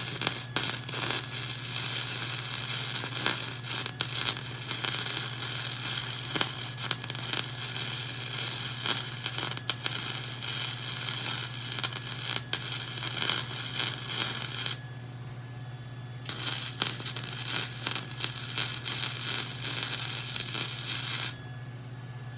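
Gasless flux-core wire-feed welder arc crackling and spitting as a bead is run, stopping about fifteen seconds in; after a short pause a second bead of about five seconds, stopping shortly before the end. A steady low hum runs underneath.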